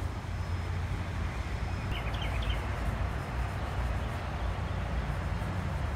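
A bird chirps a few quick times about two seconds in, over a steady low outdoor rumble.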